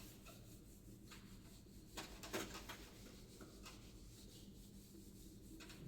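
Near silence: room tone with a faint low hum and a few faint, short rubbing or scraping sounds, the clearest about two seconds in.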